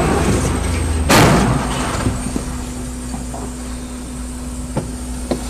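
A loud bang about a second in, likely a collision heard from inside the car. After it comes a steady low vehicle hum with a few faint knocks.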